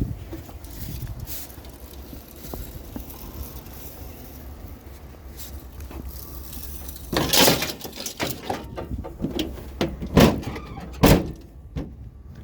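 Scrap being loaded and shifted on a truck over a steady low rumble. There is a long scraping clatter about seven seconds in, then sharp knocks near ten and eleven seconds.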